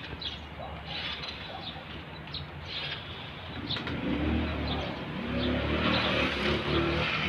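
A motor vehicle's engine comes up close from about four seconds in and grows louder, over birds chirping.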